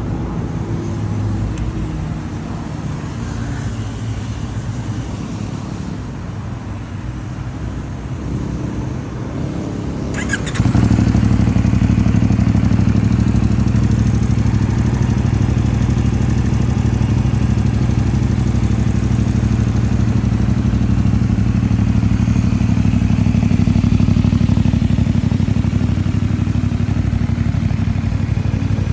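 CFMoto 450MT's 449 cc parallel-twin engine running steadily through its stock exhaust. About ten seconds in, after a brief click, it becomes suddenly much louder and stays steady.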